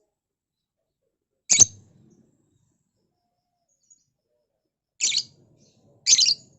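Lovebird giving short, shrill calls: one about a second and a half in, then two more close together near the end.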